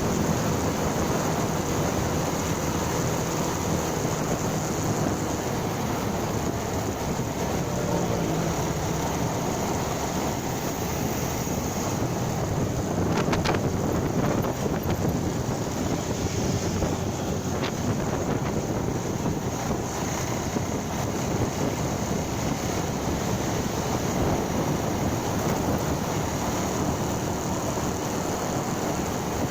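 Motorcycle riding noise: wind rushing over the microphone with the engine and road noise underneath, steady throughout. A few short knocks come through about 13 and 17 seconds in.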